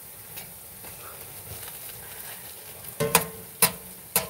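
Churro-dough bites frying in oil in a cast-iron skillet, a faint steady sizzle. From about three seconds in, a utensil knocks sharply against the skillet about three times, the first knock ringing briefly.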